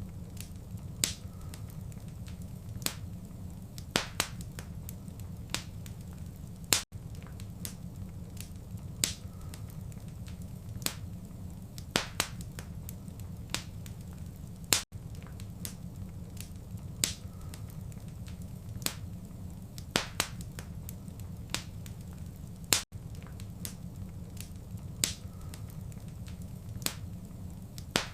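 Fireplace fire crackling: a steady low rumble of flame with sharp pops and snaps of varying loudness, one or two a second. A very brief dropout comes about every eight seconds.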